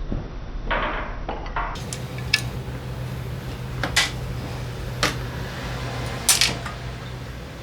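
Metal tools and parts clinking during scooter engine removal: a few sharp metallic clanks, spaced a second or so apart, over a steady low hum.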